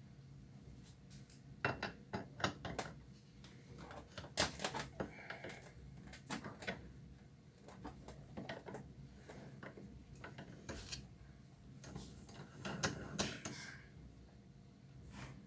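Irregular clicks, clinks and knocks of hand tools and parts being handled while a washing machine is taken apart, coming in short clusters.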